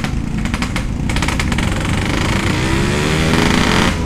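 Yamaha RX-King's 135cc two-stroke single-cylinder engine running through an aftermarket 'setengah dewa' exhaust, accelerating, its pitch rising over the second half and dropping briefly near the end.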